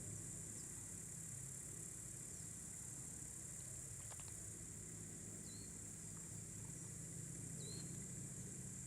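Crickets trilling steadily in a high-pitched evening chorus, with a few short bird chirps about every two seconds, over a faint low hum.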